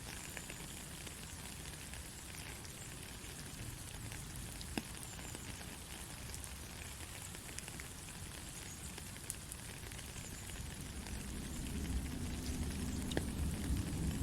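Soft, steady rain falling, with scattered small drop ticks. A low rumble builds up over the last few seconds.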